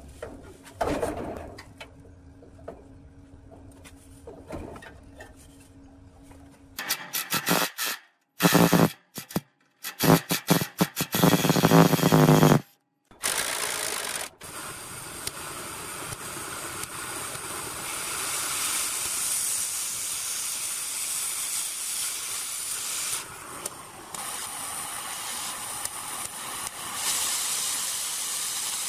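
Workshop noises: a couple of knocks and light tapping, then several seconds of loud, rapid rattling bursts that stop and start. After that comes a long, steady hiss.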